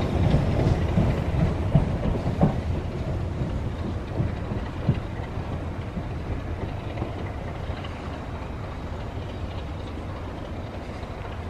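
A train running away along the line, its low rumble fading steadily, with a few scattered clicks of wheels over the rails: diesel-hauled empty coaching stock receding.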